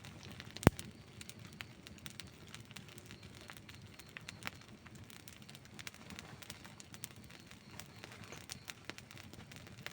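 Wood campfire burning, crackling with scattered clicks over a low steady rush of flame, and one loud sharp pop about two-thirds of a second in.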